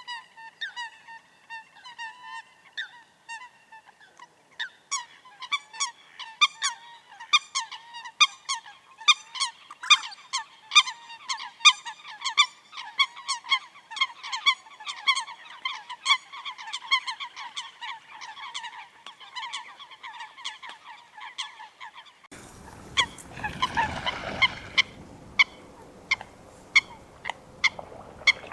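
Eurasian coot calling: a rapid series of short, nasal honking notes, a few each second. About three-quarters of the way through, the calls thin out over a rushing background noise.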